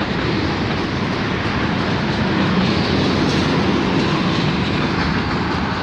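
Freight train cars rolling steadily past on the track, with continuous wheel-on-rail noise from the boxcars and covered hoppers of a CN freight.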